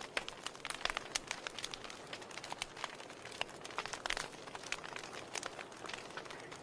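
Wood fire burning in a fireplace: a soft steady hiss with frequent irregular crackles and pops.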